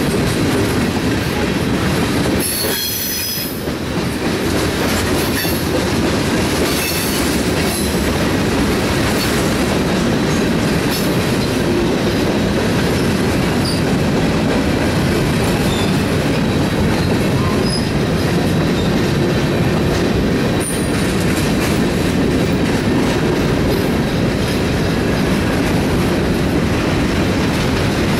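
Freight train of tank cars, covered hoppers and boxcars rolling past: a steady rumble and clatter of steel wheels on the rails, with a brief high wheel squeal about three seconds in.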